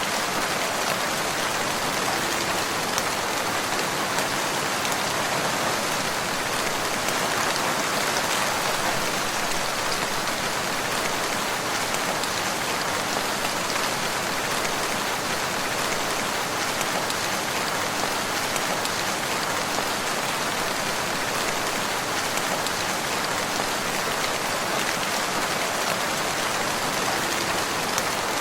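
Steady rain falling and pattering on surfaces, an even hiss of drops.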